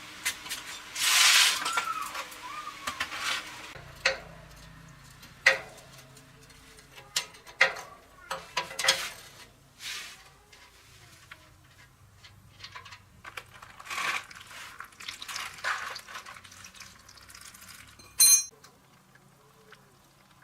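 Scattered clinks and knocks of metal parts being handled, with one sharp, ringing metallic clink near the end.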